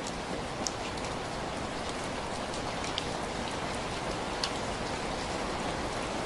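Steady rain falling in an even hiss, with three sharp pops standing out above it.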